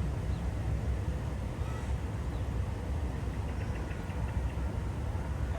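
Steady low outdoor background rumble, with a few faint, short high chirps about three to four seconds in.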